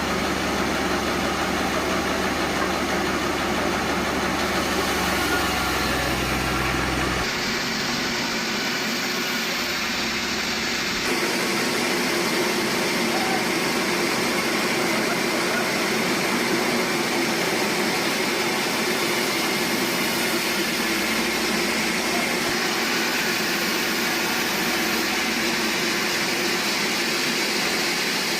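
Sawmill machinery running steadily: a dense mechanical noise with an engine-like hum, changing abruptly a few times.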